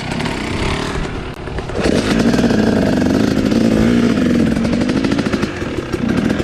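Dirt bike engine running and revving, its pitch rising and falling, louder from about two seconds in.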